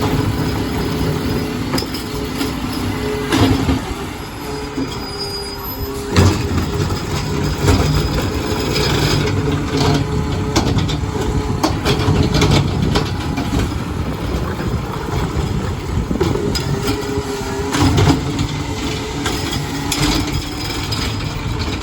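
Garbage truck running with a steady whine, with repeated metallic clanks and squeals from its working parts.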